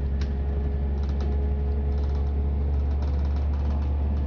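Interior of a class 172/0 diesel multiple unit on the move: a steady low drone from the running train with a faint steady whine over it, and light clicks and rattles now and then.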